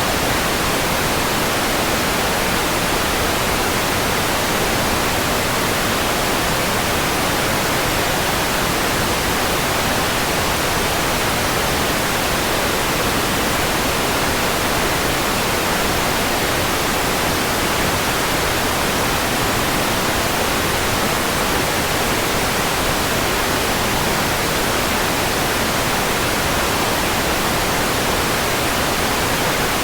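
Steady white noise: an even, unchanging hiss spread across the whole range from low to very high.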